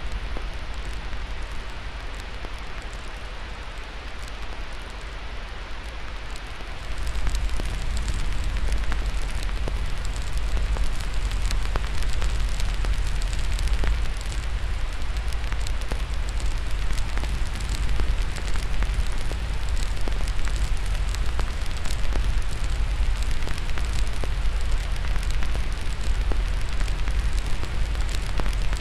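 Crackling fireplace fire, many small pops and snaps, over a steady hiss of white noise. About seven seconds in the sound gets louder, with a stronger low rumble.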